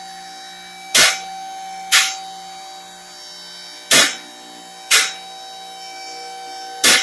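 Vehicle lift rising: its electric hydraulic pump motor runs with a steady hum while the lift's safety locks clack sharply about once a second.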